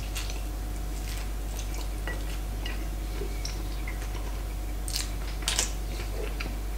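A person biting and chewing a soggy open sandwich of salted herring on rye bread with caper dressing. Soft, wet mouth sounds with a few sharper crackles about five seconds in, over a steady low hum.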